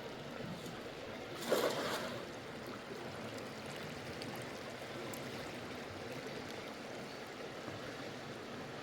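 River water flowing steadily, a constant rushing. About one and a half seconds in, a short louder noise stands out briefly.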